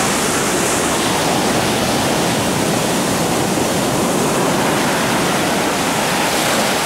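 Ocean surf washing in: a steady rush of churning seawater.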